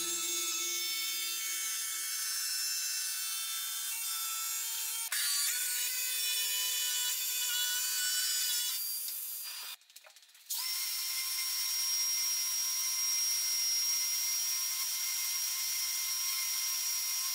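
Power tool running on wood, a steady high whine over a rushing hiss. The tone shifts abruptly about five seconds in, and the tool drops out for a moment just past the middle before running steadily again.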